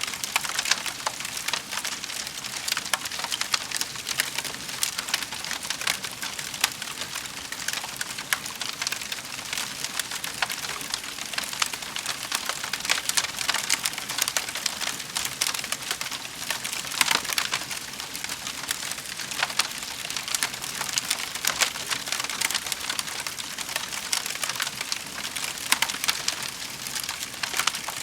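Wood fire burning in a fireplace, with steady dense crackling and frequent sharp pops and snaps.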